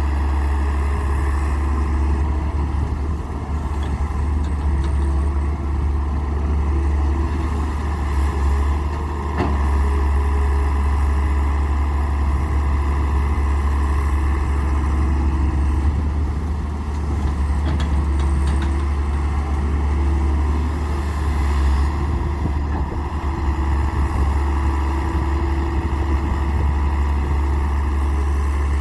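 Heavy diesel engine of a Daewoo 170W3 wheeled excavator running steadily under work, a deep low hum that swells and eases a little now and then; one short click about nine seconds in.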